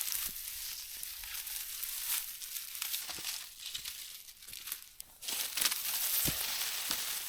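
Dry cut reed stalks rustling and crackling as a heavy bundle of them is moved along, with a dip in the noise about five seconds in.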